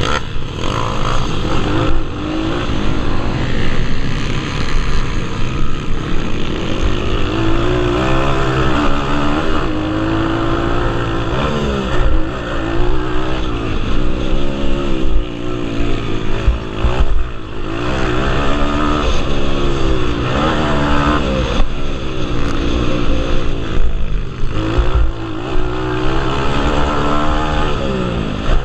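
Pit bike engines revving hard during a minimotocross race. The engine pitch rises and drops again and again as riders accelerate, shift and back off, over a steady low rumble.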